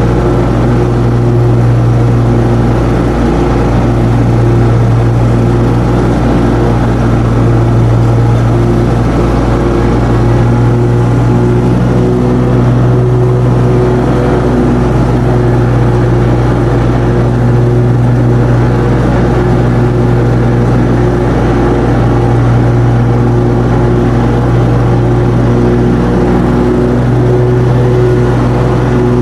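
Riding lawn mower engine running steadily at a constant loud hum while mowing.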